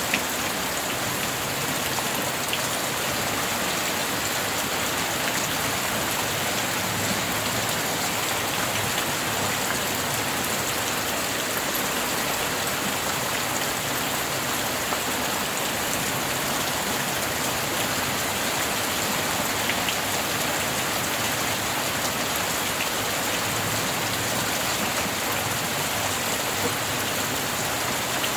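Rain falling steadily, an even hiss with a few sharper drop ticks now and then.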